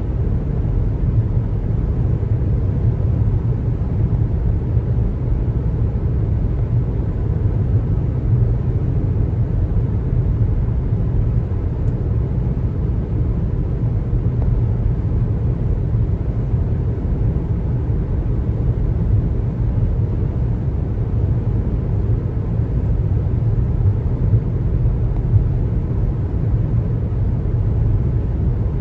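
Steady road noise of a car driving at highway speed: a constant low rumble of tyres and engine, with no sudden events.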